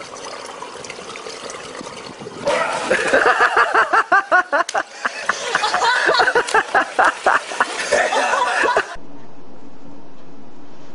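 Water sloshing at a swimming pool, then about two and a half seconds in a person breaks into loud, rapid, pulsing laughter that lasts about six seconds. It cuts off abruptly near the end into a steady low hiss.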